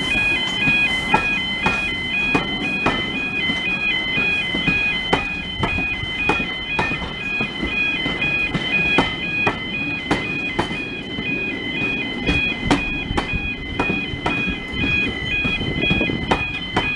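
Two-tone electronic warning alarm alternating steadily between two high pitches. Regular clicks, a little under two a second, and a low rumble sound underneath.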